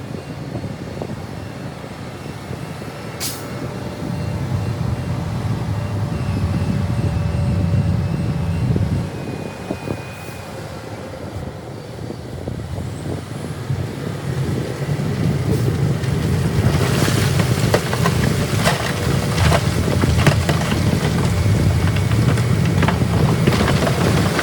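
Diesel engine of heavy earthmoving machinery working under load, its low rumble rising and falling, with a rising clatter of knocks and crashes from about two-thirds of the way through.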